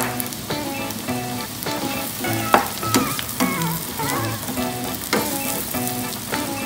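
Diced onion sautéing in melted butter in a nonstick frying pan: a steady sizzle, with a spatula stirring and scraping and tapping against the pan now and then. A tune plays along in the background.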